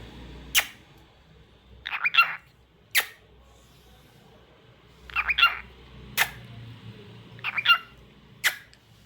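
Lutino cockatiel giving short bursts of chirping whistles, three times, with four sharp clicks spaced between them.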